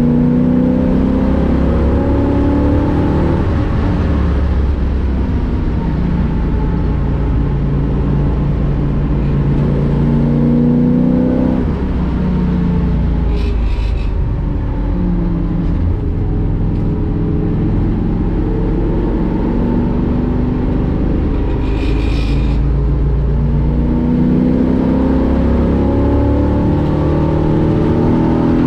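1965 Ford Mustang race car's V8 engine heard from the cockpit on a lap, repeatedly revving up through the gears and falling away when lifting for corners. Two brief higher-pitched sounds come about halfway through and again later.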